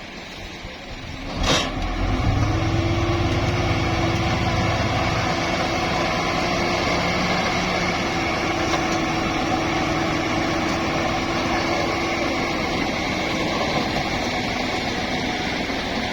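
A sharp knock, then a Nissan dump truck's engine picks up and runs steadily at raised speed for about fourteen seconds, as when it drives the hydraulic hoist that tips the loaded bed.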